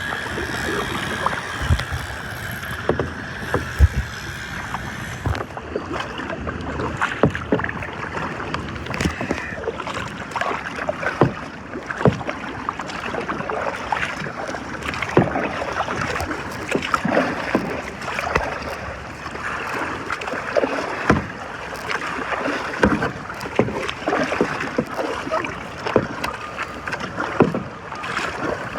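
Kayak moving through water: irregular paddle splashes and water slapping and knocking against the hull, over a steady wash of water.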